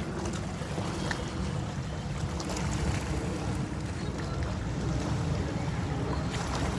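Steady low rumble of wind and water noise, with faint light splashes.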